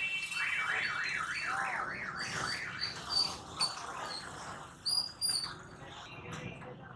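A bird calling: a warbling trill that wavers up and down quickly, then a few short, high chirps about five seconds in.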